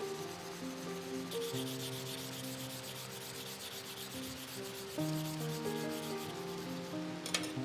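Sanding on the steel of a nakiri knife blade, a scratchy rub that is strongest in the first half, with a few sharp clicks near the end, over soft background music.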